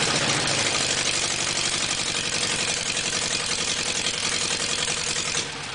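Volkswagen 1600 air-cooled flat-four engine running steadily and running well on its first run after sitting two to three years. Its sound drops away sharply near the end.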